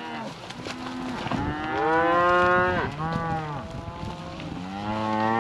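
A herd of cattle being driven, bawling in long, overlapping moos from several animals at once, swelling about two seconds in and again near the end.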